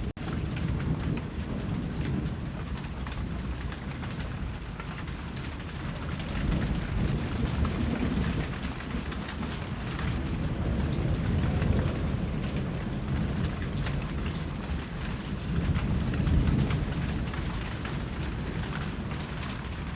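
Steady rain falling, with low rumbles of thunder swelling and fading several times. The sound cuts out for an instant right at the start.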